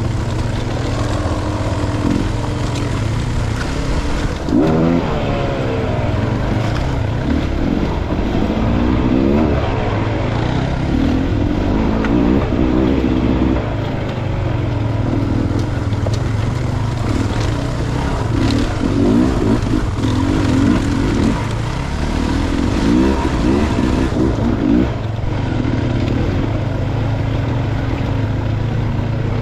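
Dirt bike engine running on a trail ride, its revs rising and falling again and again as the throttle is worked, over a steady low rumble.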